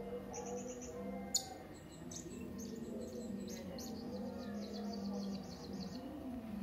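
Hanging parrot (serindit) calling: rapid trills of thin, high chirps in quick runs, one after another, with a sharp single chirp about a second and a half in. A faint low hum runs beneath.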